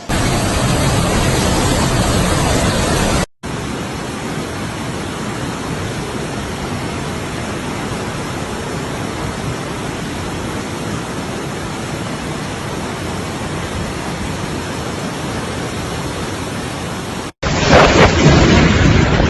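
Steady rushing storm noise in three abruptly cut stretches: a loud one at the start, a quieter, very even hiss for about fourteen seconds, then a louder one again near the end.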